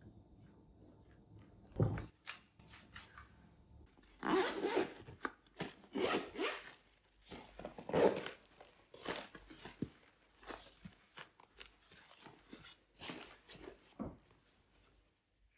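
Irregular rustling and scraping of objects being handled, with a sharper knock about two seconds in and another near the end.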